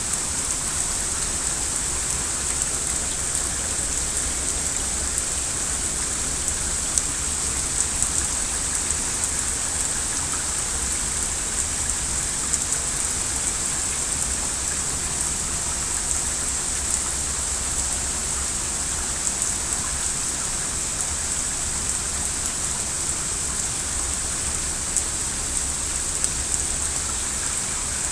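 Rain falling steadily, an even hiss with scattered sharper ticks of drops striking.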